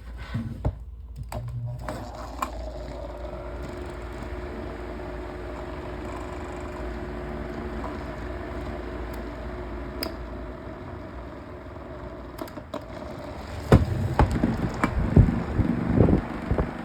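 Electric fan running with a damaged blade and its front cover off, a steady motor hum with the blade vibrating on the motor shaft. Near the end come several loud knocks and clatter.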